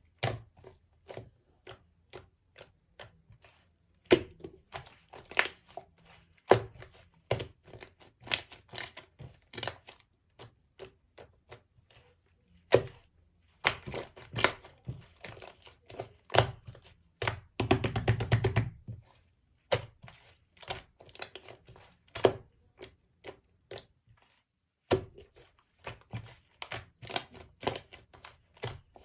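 Slime being kneaded by hand with clay mixed in: irregular sticky clicks and pops. A short, denser run of squelching comes a little past the middle.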